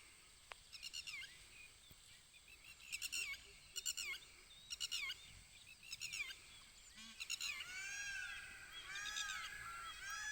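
Birds calling: short high chirping phrases about once a second, then from about seven seconds in a quick run of arched, rise-and-fall notes. A thin steady high whine sits underneath.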